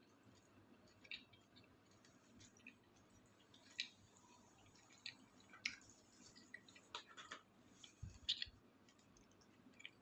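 Faint, scattered small clicks and mouth sounds of someone chewing food.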